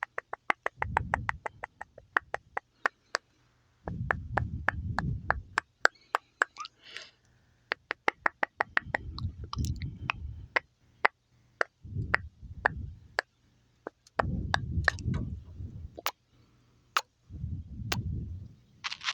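Close-mic ASMR mouth sounds: rapid trains of sharp wet clicks, about ten a second at first and then more spaced out, alternating with short, low, muffled rustling noises.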